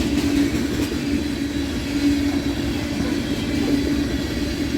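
Freight train cars rolling past: a steady rumble of steel wheels on the rails, with a steady low tone held throughout.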